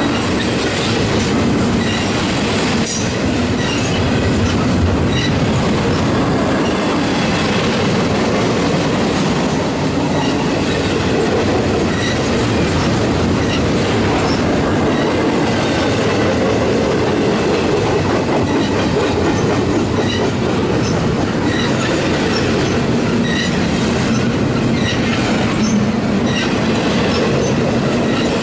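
Double-stack intermodal well cars rolling past: steady, loud noise of steel wheels on rail, with occasional clicks and short high squeaks now and then.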